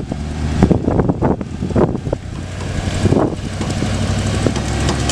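A vehicle's engine running steadily under load as it tries to tow a stuck truck out of the grass on a strap, with several short knocks or crunches mixed in.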